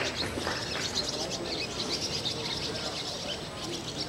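Many small birds chirping and twittering continuously, over a faint murmur of voices.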